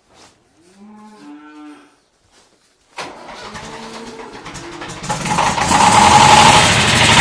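A cow moos once. About three seconds in, the David Brown 1490 tractor's diesel engine begins turning over on the starter, then catches about two seconds later and runs, much louder: the engine has finally started.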